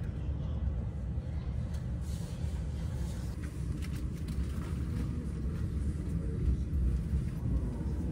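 Low, steady rumble of a JR East commuter train heard from inside its Green Car, with a few faint clicks over it.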